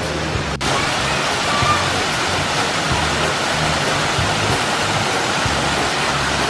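Waterfall rushing in a steady, full roar of falling water, running heavy after days of rain. Background music with a low bass line runs underneath.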